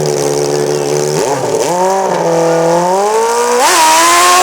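Custom-built Kawasaki hill-climb motorcycle engine idling steadily, then revving up about a second in, its pitch climbing in stages. Near the end it surges higher with a rush of hiss.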